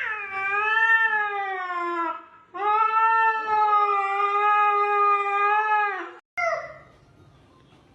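Cat yowling in long, drawn-out meows: a call of about two seconds, a longer one of about three and a half seconds, then a short one.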